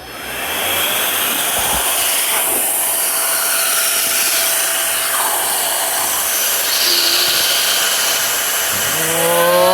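Handheld electric air blower switched on and running steadily, a rush of air with a thin steady whine. A voice exclaims "whoa" near the end.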